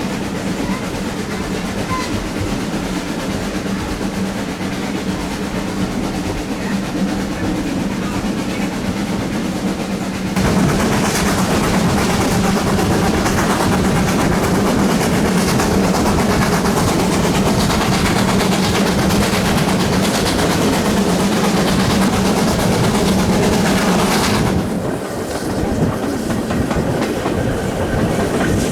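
Steam train hauled by 7820 Dinmore Manor, a two-cylinder GWR Manor-class 4-6-0, running with wheels clattering over rail joints. The sound gets abruptly louder about ten seconds in and drops back near the end.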